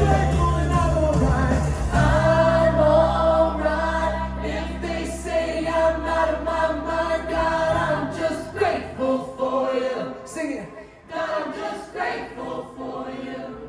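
Church worship band and singers holding a long sustained chord. The bass cuts out about eight seconds in, leaving quieter, broken-up voices as the song winds down.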